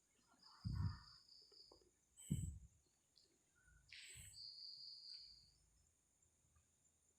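Faint night insects trilling in steady bursts about a second long over a constant high insect hum, with two dull low thumps about one and two and a half seconds in.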